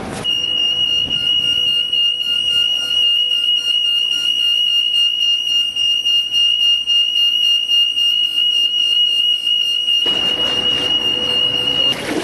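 A continuous high-pitched electronic tone held at one unchanging pitch for about twelve seconds, starting abruptly and cutting off near the end.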